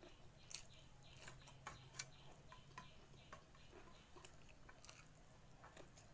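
Faint, irregular clicks and smacks of close-miked chewing on a mouthful of rice.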